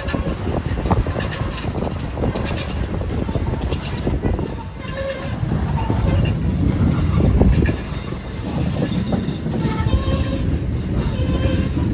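A train rolling by: a continuous heavy rumble of the cars, with rhythmic clicking of the wheels over rail joints and a few short squeals from the wheels.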